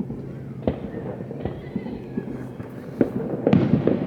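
Aerial fireworks from a town display going off at a distance: separate bangs about a second apart, then a quick cluster of louder bangs near the end.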